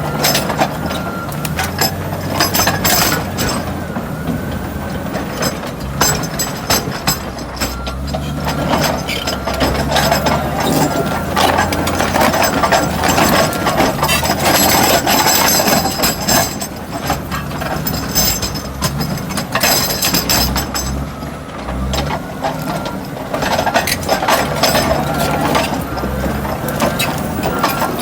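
Crawler bulldozer at work: its diesel engine running and changing pitch under load, with steady clanking and clattering of steel tracks, and rock and soil scraping.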